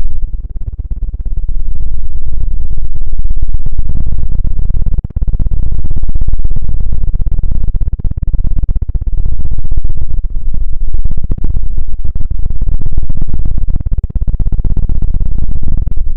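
Loud close-miked rubbing and scratching with a deep rumble, of the kind made in ASMR triggers. It comes in waves of a few seconds, easing off briefly about a second in, around five seconds, and again near eleven and fourteen seconds.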